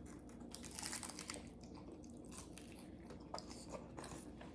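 Faint chewing and mouth sounds of someone eating a taco, with a few soft clicks.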